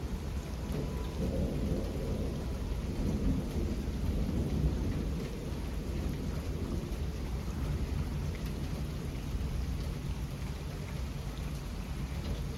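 Steady rain falling during a thunderstorm, with a low rolling rumble of thunder that swells over the first few seconds and then eases back under the rain.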